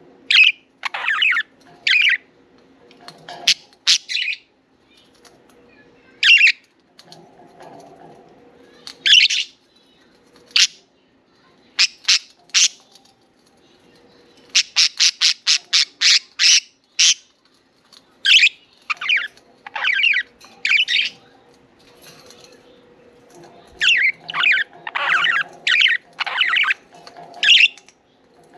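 Pet budgerigars chirping and squawking in short, scattered calls, with a quick run of about ten rapid chirps midway.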